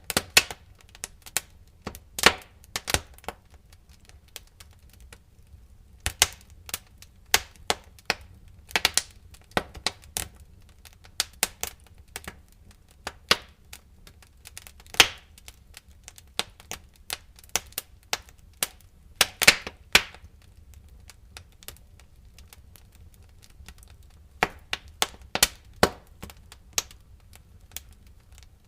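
Wood fire crackling in a fireplace: irregular sharp pops and snaps over a faint low rumble, with a cluster of louder pops a little before two-thirds of the way through and quieter stretches in between.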